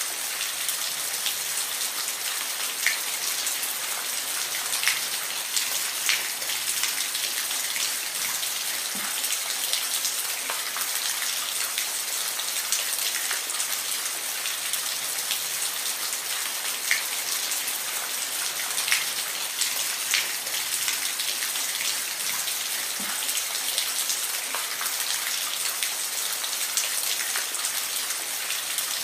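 Steady rain: an even, dense hiss of falling rain with scattered louder single drops striking close by.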